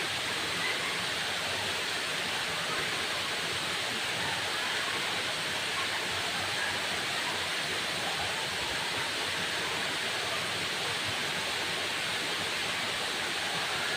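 Waterfall: falling water making a steady, even rushing noise, strongest in the upper-middle range, with no change in level.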